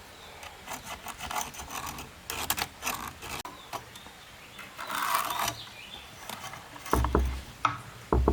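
Wood being scraped and rubbed in short, irregular strokes with small knocks, then two heavy thumps near the end.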